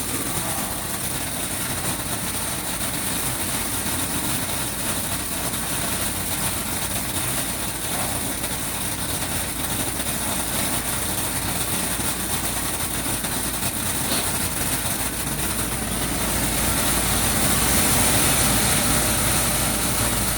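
Seed-sorting machine running steadily with an even whir and hiss, growing slightly louder about three-quarters of the way through.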